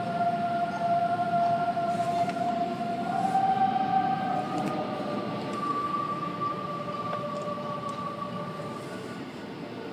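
Car wash machinery running: steady whining tones that drift slowly in pitch over a rushing rumble.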